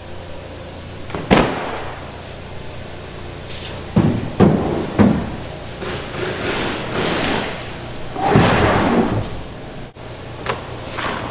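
An old truck bed mat being thrown into a pickup's bed and worked into place: several heavy thuds in the first five seconds, then longer scraping and sliding noise.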